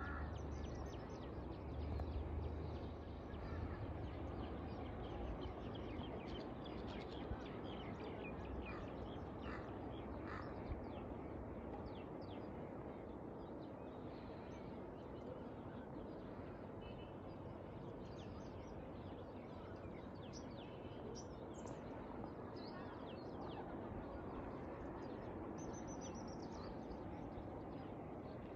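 Outdoor background noise with scattered short bird calls throughout, and a low rumble in the first few seconds.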